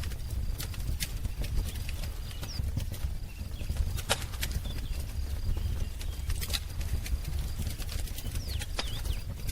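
Wood fire crackling, with irregular sharp pops and snaps over a low steady rumble of the flames. Faint bird chirps come through about two and a half seconds in and again near the end.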